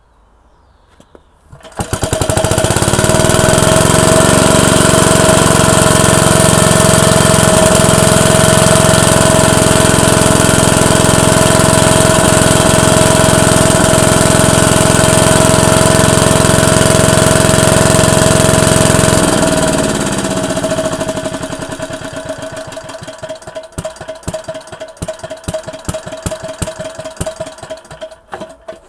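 Single-cylinder engine of a World War II generator set starting about two seconds in, quickly picking up speed, and running steadily and loudly with a steady high tone through it. About two-thirds of the way through it drops off and slows down, its separate firing beats audible as it runs down until it stops near the end: the engine running properly after repair.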